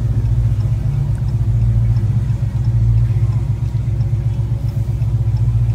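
Dodge car's engine running with a steady, deep rumble, heard from inside the cabin as the car rolls slowly.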